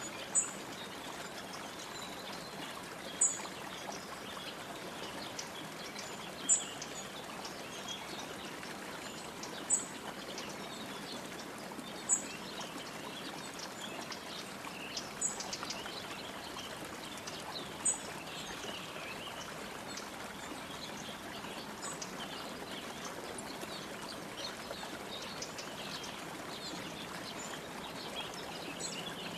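A bird gives a short, sharp, high-pitched call about every three seconds, loudest over the first eighteen seconds and fainter after. Softer bird chirps come in between, over a steady rushing background noise.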